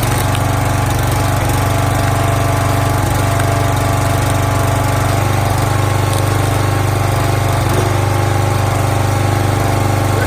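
Small gas engine of a log splitter running steadily at an even speed.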